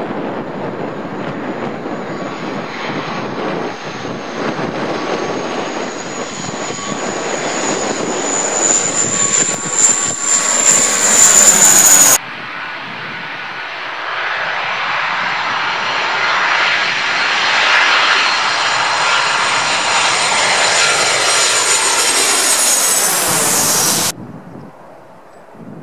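Two airliners passing low overhead on landing approach, one after the other: a rushing engine noise with a high whine that grows louder. The second whine slides down in pitch as the plane goes over. Each cuts off suddenly.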